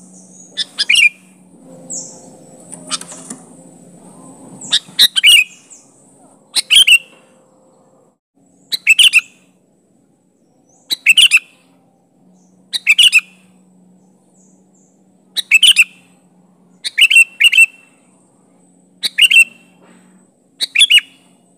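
Sooty-headed bulbul calling: short, loud phrases of two or three quick notes, repeated about every two seconds.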